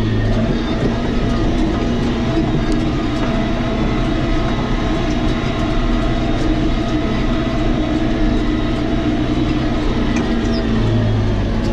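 John Deere tractor's diesel engine running steadily under work, with a low note that eases slightly just after the start and strengthens again near the end.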